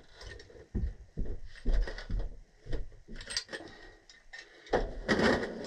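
Irregular metal clicks and knocks of threaded gas-pipe fittings and tools being handled and tightened, with a louder stretch of clattering near the end.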